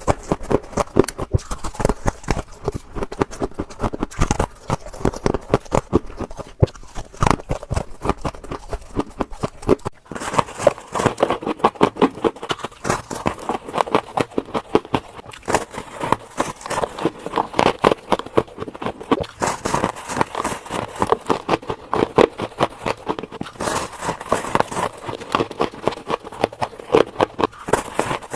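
Close-up crunching of freezer frost ice being bitten and chewed: a rapid, continuous run of crisp crunches, several a second.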